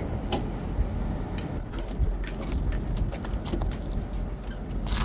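Low steady rumble of an idling vehicle engine, with scattered light clicks and knocks.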